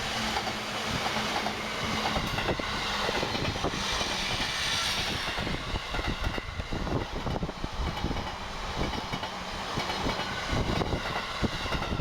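E233 series electric train passing close by, its wheels clicking over rail joints in a dense, irregular clatter over a steady running rumble. Strong wind buffets the microphone.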